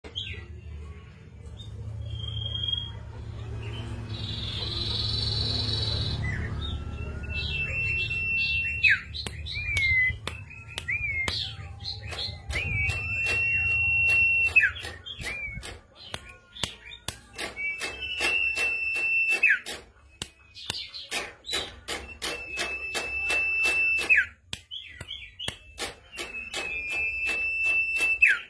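A sirtu songbird singing: long, level whistled notes, each held for a second or two and ending in a sharp downward slur, repeated every few seconds with short chirps between them. Steady sharp clicks tick along behind the song.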